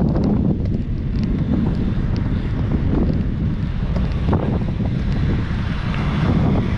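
Wind buffeting the microphone during a bicycle ride: a loud, steady low rumble. Near the end a hiss higher up grows louder.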